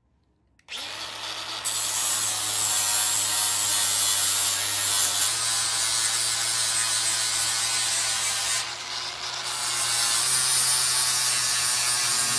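Angle grinder with a cutting disc slitting through the steel front valance panel of a Mk2 Ford Escort. It starts under a second in and runs steadily with a high hiss and a low hum, with a change in load about five seconds in and a brief easing off around nine seconds.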